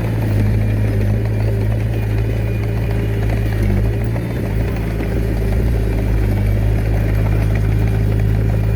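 Heavy earthmoving machine's diesel engine running steadily at constant speed.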